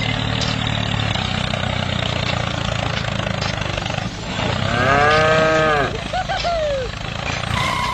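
A tractor engine runs steadily. A cow gives one long moo about five seconds in, the loudest sound, followed by a shorter falling call.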